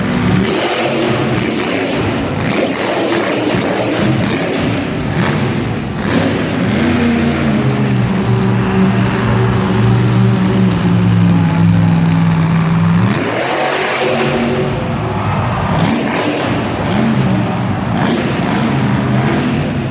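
Monster truck engine revving hard through a run, its pitch rising and falling, held at high revs for several seconds, then dropping off sharply about thirteen seconds in before revving again.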